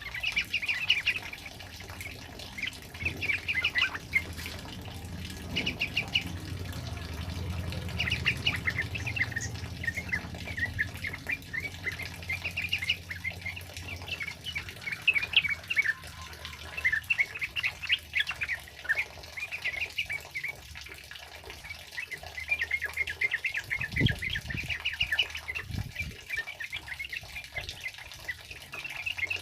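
Yellow-vented bulbuls (trucukan) chattering in a rapid run of short, repeated chirps over steady heavy rain. A low rumble comes in a few seconds in and fades, and there are two dull thumps near the end.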